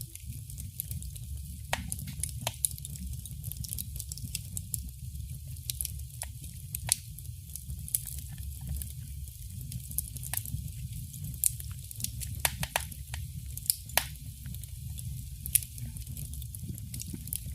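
Wood fire crackling in a fireplace: a steady low rumble of burning under frequent, irregular sharp pops and snaps.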